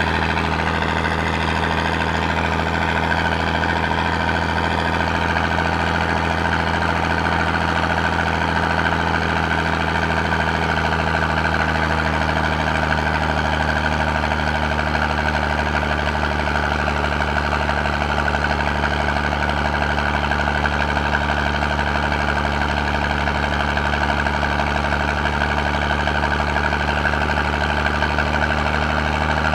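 Eicher Wotan 1 tractor's six-cylinder 80 hp diesel engine running steadily under heavy load, climbing uphill while towing a low-loader carrying two tractors. A steady high whine sits over the engine note.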